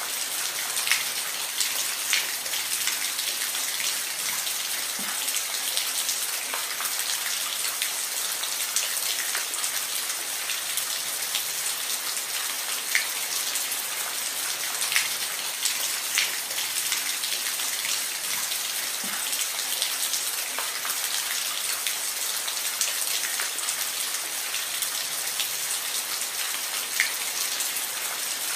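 Steady rain with a dense hiss and scattered louder drops striking a surface every second or two.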